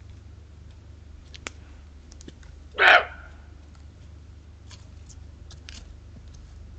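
A muntjac (barking deer) gives a single loud, short bark about three seconds in. Faint clicks and a steady low hum are underneath.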